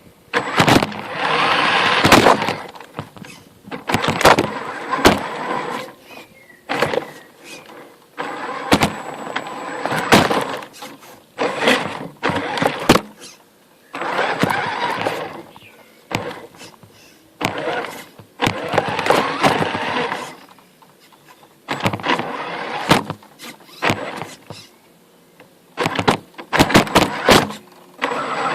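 Radio-controlled CC01 crawler truck's electric motor and gearbox whining in short throttle bursts, stopping and starting over and over, with sharp clicks and knocks in between.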